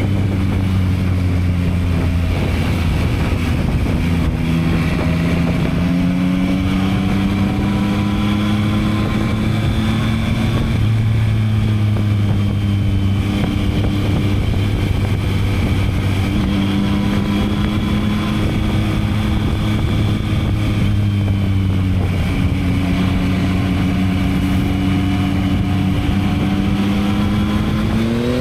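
Yamaha MT-09 (2022) 890 cc inline three-cylinder engine through its stock exhaust, running under way at fairly steady part-throttle revs. The pitch climbs gently a couple of times and eases back.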